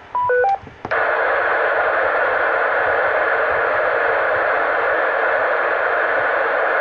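A 2 m FM repeater's courtesy tone, a quick run of beeps at a few different pitches, comes through the radio's speaker as the call ends. About a second in it gives way to steady loud FM radio hiss with no signal on it.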